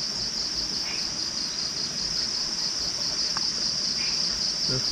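Chorus of insects chirring, a steady high-pitched trill that pulses about seven times a second.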